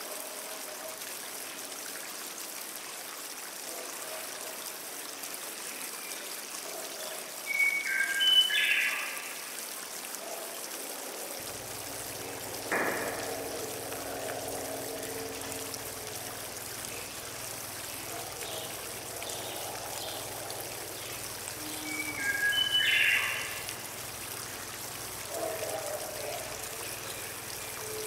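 A bird calls twice, each time a short burst of stepped high notes, over a steady hiss of running water.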